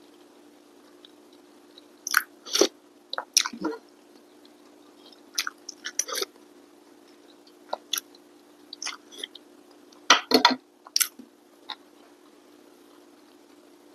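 Close-miked chewing of a person eating a rice meal: wet mouth smacks and short sharp clicks in irregular clusters with pauses between them.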